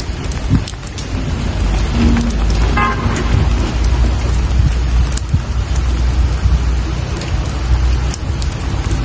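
Steady rainfall with scattered drop ticks over a deep low rumble, and a brief faint tone about three seconds in.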